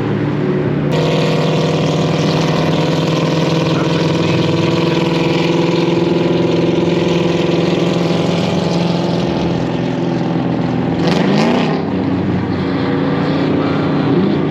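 Car engine running steadily under way, with road and wind noise that grows louder about a second in. Around eleven seconds there is a brief rise in engine pitch, a short rev.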